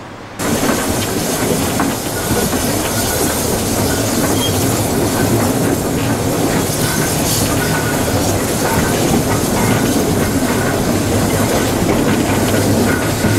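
Steam train rolling along, heard from a car riding just behind the locomotive's wood-loaded tender: a steady loud rumble with wheels clattering over the rail joints. It starts abruptly about half a second in.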